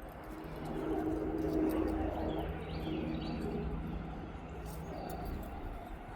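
Birds chirping in short, scattered calls. Under them runs a steady low hum that swells and then fades over about five seconds.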